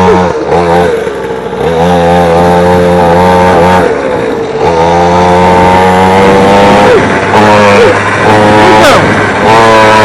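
Engine of a 50cc two-stroke mini dirt bike running hard under way, holding a steady note. It eases off twice, about half a second in and again around four seconds in, then picks back up.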